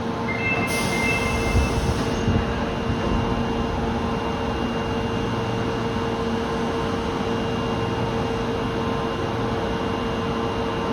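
Osaka Metro Tanimachi Line subway train at the station, a steady running noise with a constant hum, and a short hiss of air about a second in.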